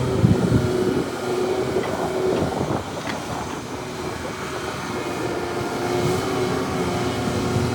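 Heavy diesel earthmoving machinery working: an excavator and dump truck running, with irregular clattering and knocks in the first three seconds. A steady engine drone builds again near the end.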